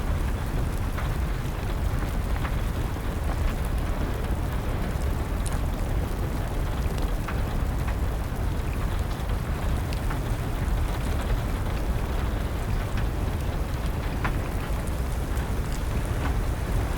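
Steady rain together with a wood fire crackling: an even rush of rain, heaviest in the low range, with scattered sharp pops from the burning wood.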